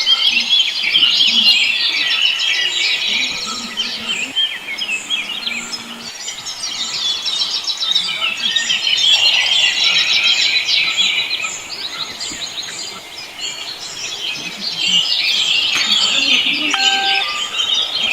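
A flock of small birds chirping and twittering together in a dense chorus that swells and eases in waves.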